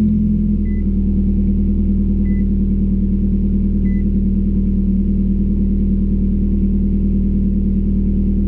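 Crossover SUV engine idling steadily and loudly through an exhaust made to sound like a go-kart, just after starting. A faint chime beeps three times early on.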